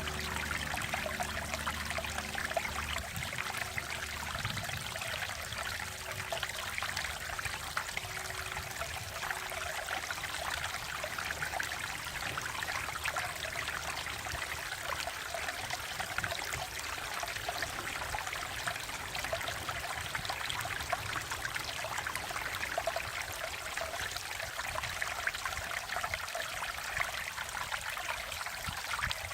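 Mountain valley stream flowing over rocks: a steady, even rush of babbling, splashing water.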